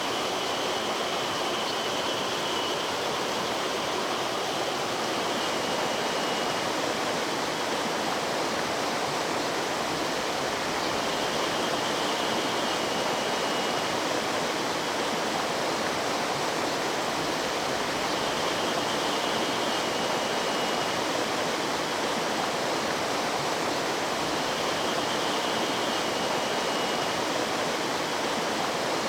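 Mountain stream water running with a steady, even rush. A faint high call recurs four or five times, about every seven seconds.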